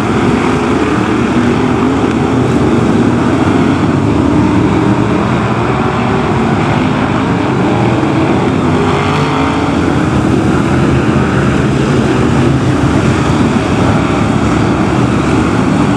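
Several BriSCA F1 stock cars' big V8 engines running loudly together, their overlapping engine notes rising and falling as the cars lap the track.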